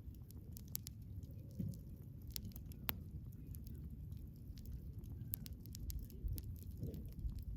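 Wood bonfire burning: a low steady rumble of flame with many small sharp crackles and pops from the burning wood, one louder pop about three seconds in.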